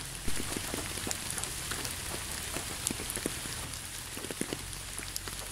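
Steady rain falling on a surface: an even hiss with many small drops ticking irregularly through it.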